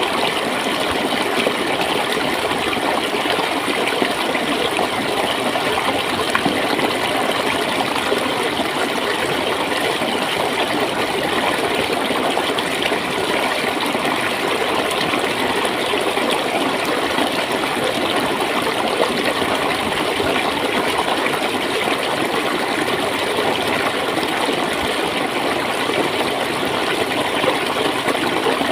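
Running water gurgling and splashing in a steady, unbroken rush.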